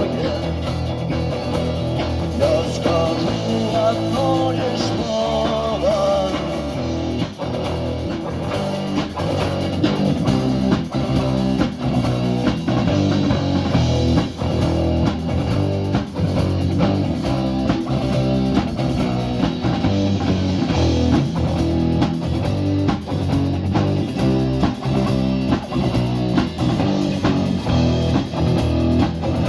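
Live rock band playing an instrumental section with electric guitars, bass and drums: a lead guitar melody for the first several seconds, then a steady driving rhythm.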